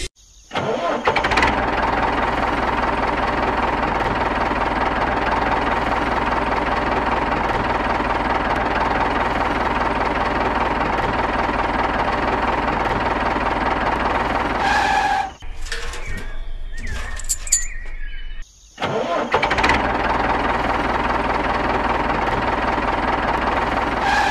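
Engine sound of a mini model tractor, running steadily. It cuts off suddenly about two-thirds of the way through and starts again a few seconds later.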